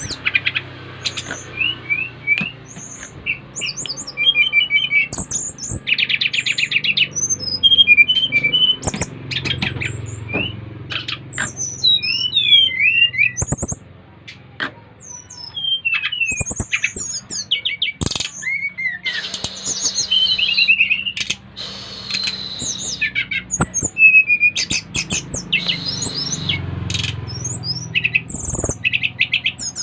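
Caged SRDC (sikatan rimba dada coklat) jungle flycatchers singing in loud, varied bursts of chirps, whistled glides and fast trills, with more than one bird calling. Sharp taps break in here and there.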